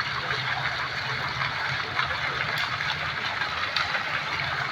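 Fountain water splashing in a steady rush, with a low hum underneath.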